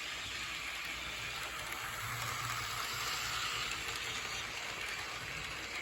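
HO scale model train running on its track: a steady hiss of wheels rolling on the rails over a low motor hum, swelling slightly around the middle.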